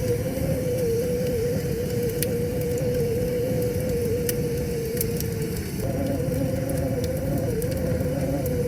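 Wood fire crackling with scattered sharp pops over the steady rushing of a river, with a steady, slightly wavering tone that shifts a little about six seconds in.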